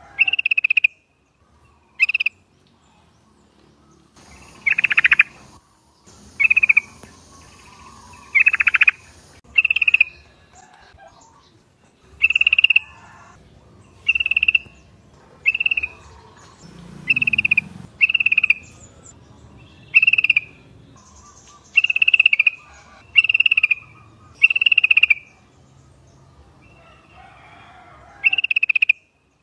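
Yellow-vented bulbul (trucukan) calling: about twenty short, bubbly notes repeated at irregular intervals, with a brief pause near the end.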